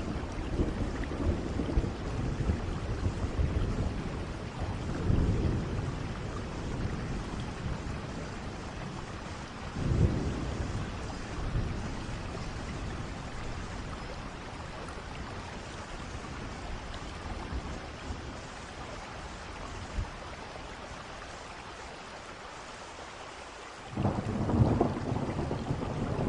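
Steady rain with thunder: low rolling rumbles at first, a sharp clap about ten seconds in, then a quieter stretch of rain alone before a loud rumble breaks in suddenly near the end.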